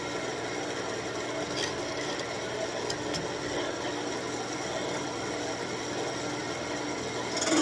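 Wood lathe spinning a thin birch wand blank while a turning gouge cuts it, a steady rasping of steel on wood. Near the end the cut turns louder and a steady buzz comes in, the start of the thin work chattering.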